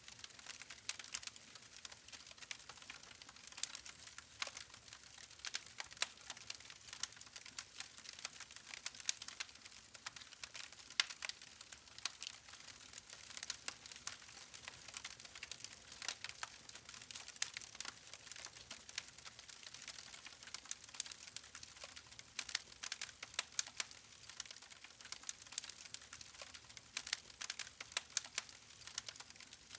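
Log campfire crackling: irregular sharp pops and snaps, several a second, over a steady faint hiss of the burning wood.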